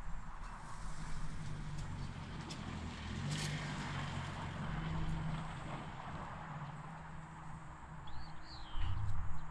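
A steady low mechanical hum with a constant pitch, and a short bird chirp about eight seconds in.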